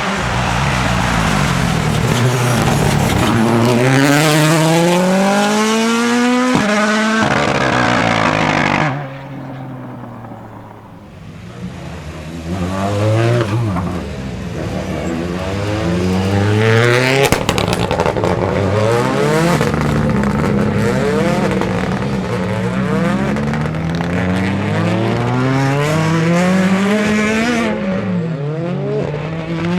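Ford Puma Rally1's 1.6-litre turbocharged four-cylinder rally engine driven hard. The pitch climbs again and again, drops sharply at each gearshift or lift, and the level falls away about nine seconds in before it comes back loud.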